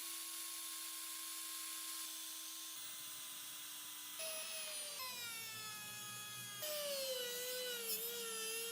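Electric power tool motor running with a high whine, steady for the first few seconds. It then twice comes in higher and sags in pitch, wavering near the end, as the tool is loaded against the work.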